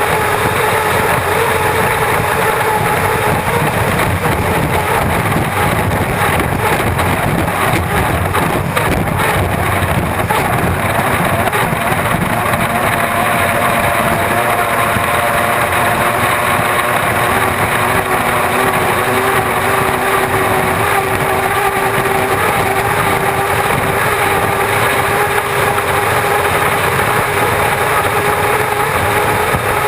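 Turbine engine of an unlimited hydroplane running hard at racing speed, a loud steady rush of noise with a few sustained tones that waver slightly in pitch, heard onboard with wind and water noise on the microphone.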